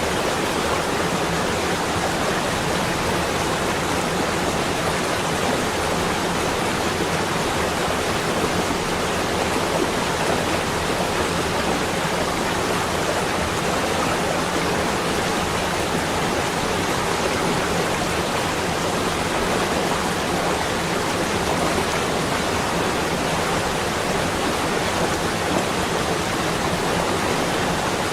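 Steady, even rushing noise of a winter nature ambience, unchanging throughout with no separate events.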